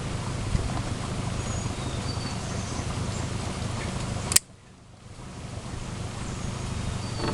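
Steady wind rumbling over the microphone, with a few short high bird chirps. About four seconds in there is a sharp click, then the sound drops out almost entirely and fades back in over a couple of seconds.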